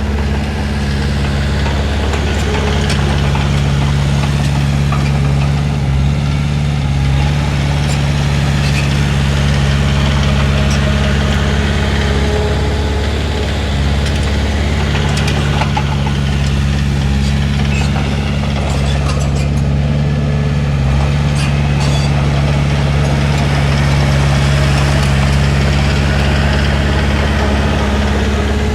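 Heavy diesel engine of an earthmoving machine running steadily throughout, with scattered light clanks over it.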